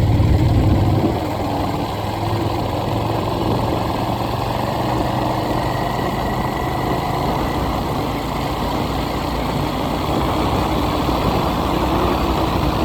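A vehicle engine running steadily with a continuous low rumble, a little louder for the first second.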